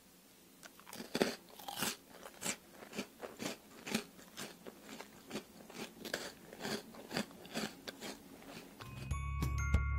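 Crisp, butter-toasted bread cubes being bitten and chewed close to the microphone: dry crunches about twice a second, starting about a second in. Near the end, a glockenspiel-style music jingle comes in.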